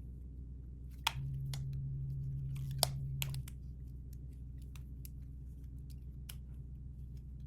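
Scattered small clicks and taps of toy packaging being handled and opened by hand. A low steady hum comes in for about two seconds after the first sharp click.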